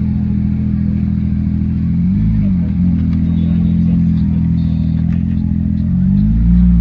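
Porsche 911 GT3's naturally aspirated flat-six running at low revs as the car creeps along. The revs swell briefly and settle about two seconds in, and again near the end.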